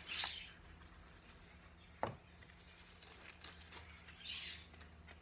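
Light handling sounds while starting seeds: soft rustles near the start and about four seconds in, a sharp tap about two seconds in, and a few faint clicks.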